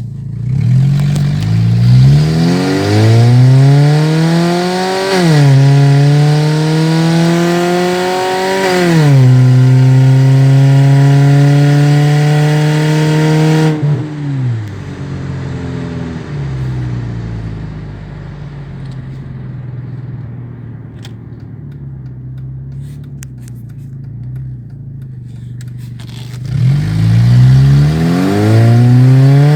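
Mercedes CLK230 Kompressor's supercharged four-cylinder engine, running with no muffler, accelerating hard. Its pitch climbs, drops sharply twice as the gearbox shifts up, then holds steady. About halfway through it falls off to a quieter, lower steady run, and near the end it climbs again under acceleration.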